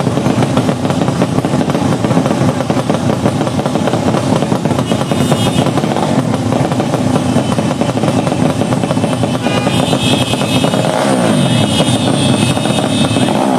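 Tuned underbone racing motorcycle engines running loud, with the engine pitch sweeping up and down in the last few seconds.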